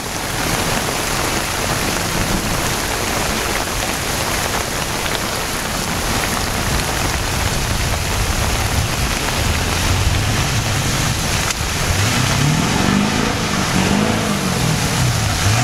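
Steady hiss of rain falling, with a straight-piped Ford 7.3 Powerstroke V8 turbo-diesel truck's engine. The engine hum comes up from about halfway, and in the last few seconds it revs up and down several times.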